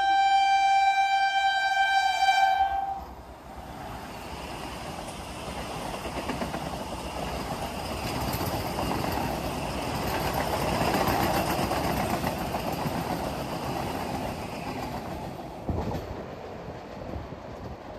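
Train horn sounding a steady chord that cuts off about three seconds in, followed by a train passing at speed: the rumble and wheel clatter build up, peak, then fade. A single sharp knock near the end.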